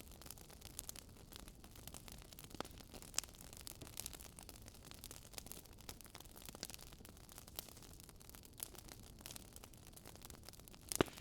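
Fireplace crackling faintly: a soft hiss with irregular small pops and snaps, and one louder crack near the end.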